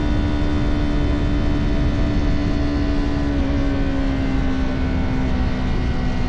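Motorcycle engine running at steady cruising revs, its pitch easing slightly lower a little past halfway, over low wind rumble on the microphone.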